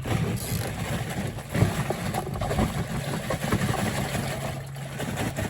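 Ice rattling and clattering as it is scooped over freshly caught crappie in a cooler, with a steady low hum underneath.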